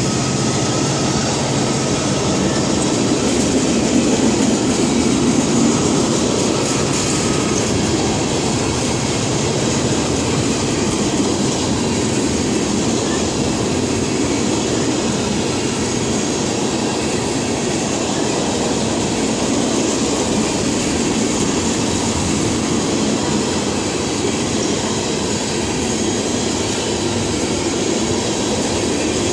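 Freight train of tank cars rolling past at a steady speed, with a continuous rumble and rattle of wheels and car bodies over the track and a clickety-clack of the rail joints. A thin wheel squeal sounds over it for the first seven seconds or so, then fades.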